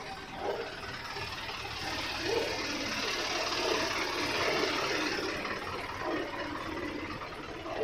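A motor vehicle's engine running, a steady noisy sound that grows louder in the middle and then eases off.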